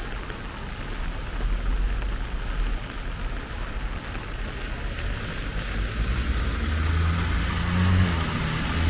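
Steady rain falling. About six seconds in, the low hum of a motor vehicle's engine comes in and grows louder.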